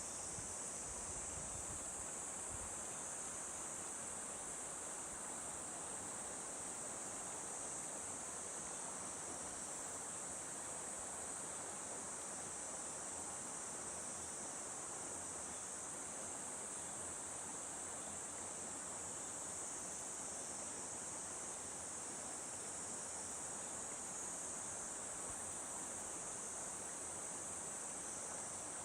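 A steady, high-pitched chorus of summer insects over the even rush of a mountain valley stream.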